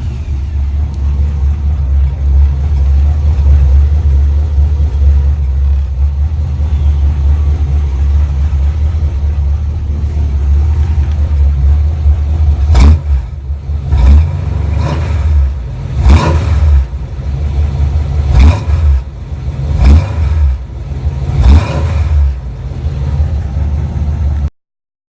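Pickup truck engine breathing through long-tube headers and a true dual exhaust with single-chamber turbine mufflers, with a raspy tone. It idles just after starting, then in the second half the throttle is blipped about seven times in short revs. The sound cuts off suddenly near the end.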